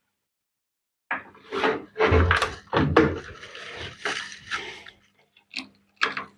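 Irregular knocks, clicks and scraping as washing-machine parts are handled during reassembly, with a few heavier thumps a second or so in. A faint steady hum lies underneath.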